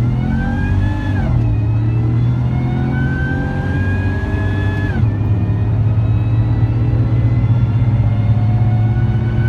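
Supercharged Chevrolet Silverado V8 with a Magnuson TVS2300 supercharger, long-tube headers and catless dual exhaust through a Magnaflow muffler, being revved: a steady deep exhaust note under a supercharger whine that climbs, drops back about a second in, climbs again for a few seconds, falls off abruptly near the middle, then rises slowly again.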